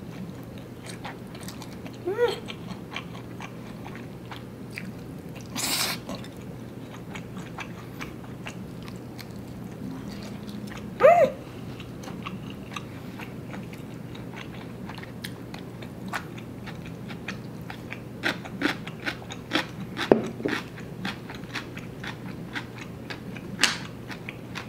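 A person chewing and slurping chewy instant noodles up close, with many small wet mouth clicks and smacks. A short noisy slurp comes about six seconds in, and a couple of brief hums of the voice are heard.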